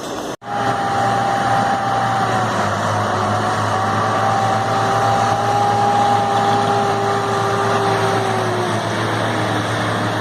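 A heavy vehicle or machine engine running steadily, with a low hum and a whine that drifts slightly in pitch. It starts abruptly after a brief dropout about half a second in.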